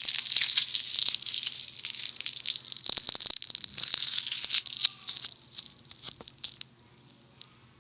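Funny Foam, tiny foam beads bound in sticky glue, squished and pressed right against a binaural dummy head's ear microphone: dense sticky crackling and popping, thinning to sparse faint clicks after about five seconds.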